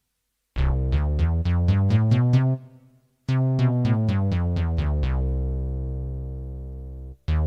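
Yamaha PSS-E30 portable keyboard playing a preset voice in demo: a quick run of notes, a short break, then a second run ending on a long held note that slowly fades out.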